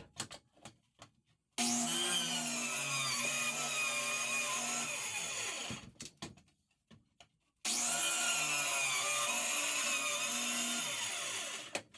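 Power saw cutting through wood subfloor in two runs of about four seconds each, with a short stop between them. A few light clicks come before the first cut.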